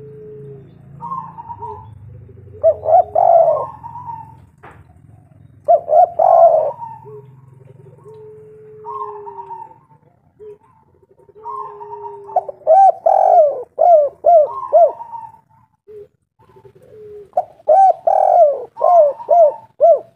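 Spotted dove (tekukur) cooing in repeated phrases, each a run of loud rounded notes, with a lower drawn-out coo between phrases and short pauses between groups.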